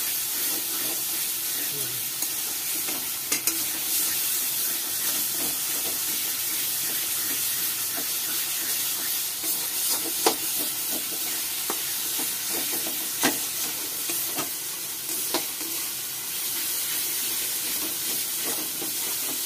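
Thick ginger-garlic-onion-tomato masala with yogurt sizzling in oil in a kadai while a spatula stirs and scrapes through it, with a few sharp clinks of the spatula against the pan. The masala is being fried down until the oil has separated.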